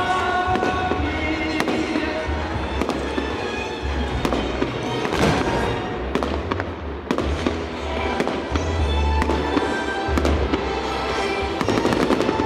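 Fireworks going off in rapid succession, a continuous run of bangs and crackles, with music playing under them.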